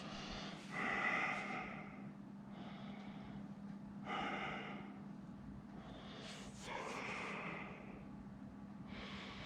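A man breathing out heavily through his nose and mouth, three slow breaths, with a faint steady hum underneath.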